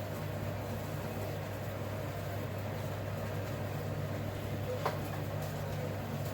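Steady low hum of an electrical appliance or fan, with one short click about five seconds in.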